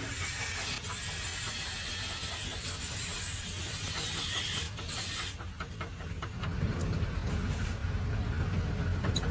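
An engine running steadily, with a hiss over it for about the first five seconds. After the hiss stops, a run of quick clicks begins and the engine sound grows louder.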